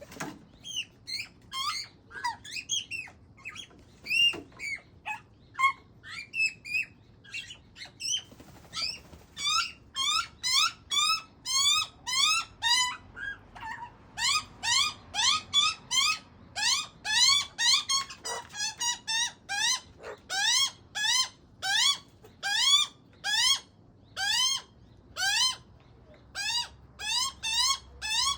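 Juvenile Australian magpie giving repeated begging calls: short, squeaky, rising calls about two a second. They grow louder from about halfway through, with a quick flurry of calls partway along.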